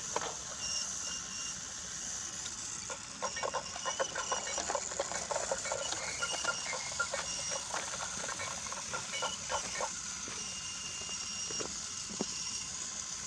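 Brio wooden toy train rolling on wooden track, its wheels clicking and rattling over the track joints, the clicks coming thick and fast through the middle and sparser toward the end.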